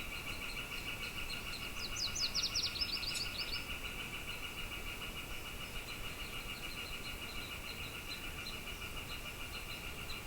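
A songbird sings a quick run of about a dozen high, down-slurred notes about two seconds in, over a steady, fast-pulsing high trill that runs throughout, in desert morning ambience.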